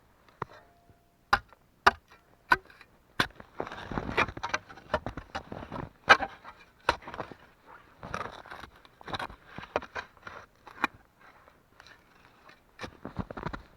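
A few sharp knocks and scrapes as a dug hole is filled back in, then footsteps crunching through deep snow at about one step a second.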